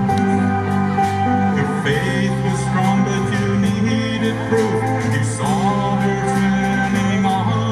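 Live band playing a song: a singer over sustained bass notes, with drums keeping a steady beat.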